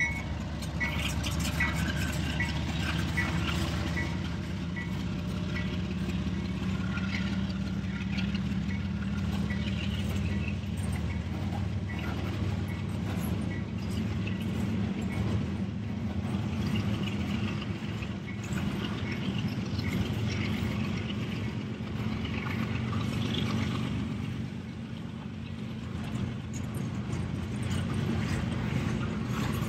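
Freight train of covered steel-coil cars rolling steadily past behind a CSX ES40DC diesel locomotive, with a continuous low engine hum and wheel rumble. A grade-crossing bell dings about twice a second during the first few seconds.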